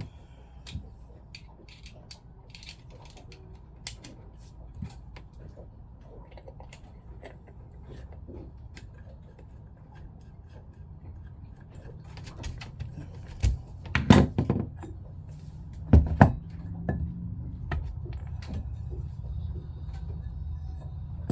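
Scattered light clicks and knocks of small pump parts being handled and worked apart by hand, with a few louder knocks about two thirds of the way through, over a low steady hum that grows louder in the second half.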